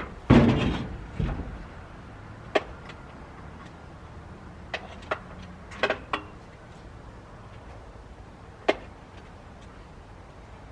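Work on an old pickup truck: a heavy metal clunk about half a second in, then scattered sharp clicks and taps over the following seconds.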